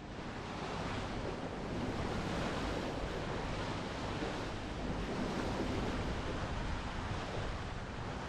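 Steady wind buffeting the microphone over the wash of waves on open water.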